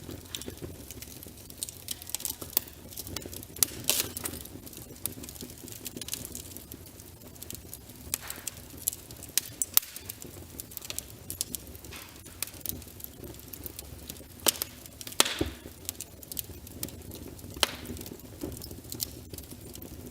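Wood fire burning in a fireplace: logs crackling with scattered irregular pops and snaps over a low steady hiss, with a few louder pops.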